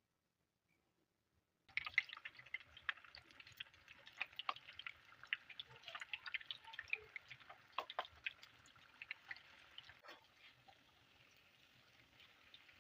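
Food frying in hot oil: sudden sizzling with dense crackles and pops starting about two seconds in, settling to a quieter sizzle near the end.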